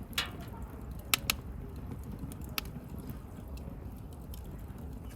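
Wood bonfire burning: a steady low rush of flame with sharp crackles and pops from the burning wood. The loudest are two pops close together about a second in.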